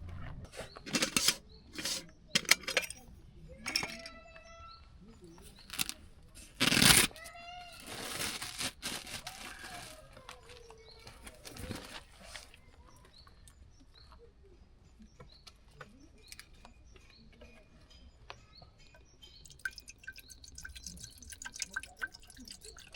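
Camp cookware being handled: sharp metal knocks and clinks, a couple ringing briefly, then water pouring for about two seconds around eight seconds in, followed by small clicks.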